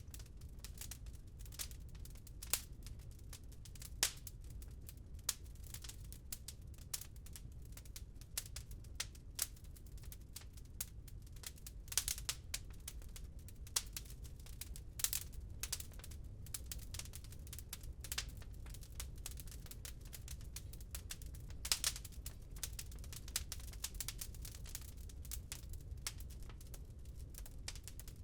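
Wood fire crackling in a fireplace: constant irregular small pops and snaps, with a few sharper pops, over a steady low rumble.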